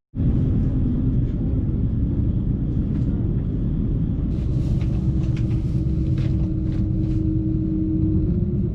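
Passenger train running along the track, a steady low rumble heard from inside the carriage, with a few light rattles and a steady hum that comes in about halfway through.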